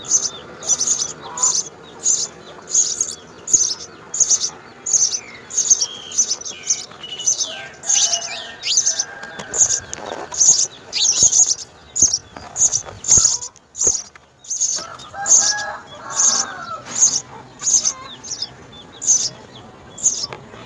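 House sparrows chirping over and over, about two short high chirps a second in a steady series, with a few lower, fuller calls mixed in.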